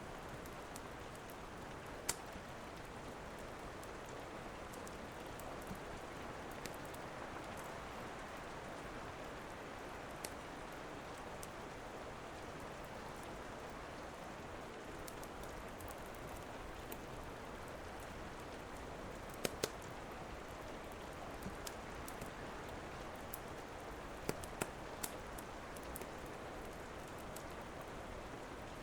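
Steady rain, with the sharp, irregular pops and crackles of a wood fire burning in a fireplace scattered over it, a pair of loud pops close together about two-thirds of the way through.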